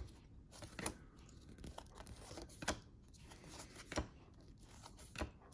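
A trading-card pack wrapper being torn open and crinkled, with scattered light ticks and rustles as it is handled.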